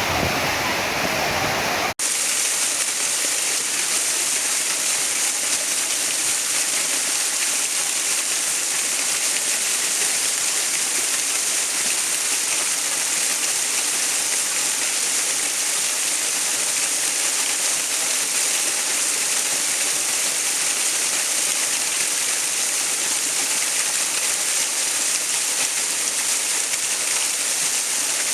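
Steady rush of falling water, a bright, even hiss with little bass like a waterfall. About two seconds in it cuts abruptly from a deeper, fuller water sound to this.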